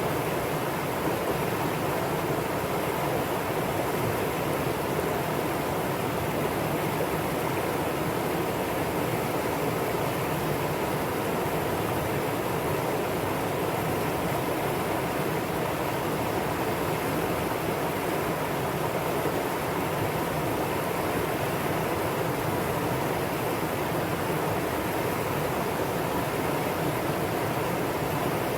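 Valley stream water running, a steady, even rush that does not change.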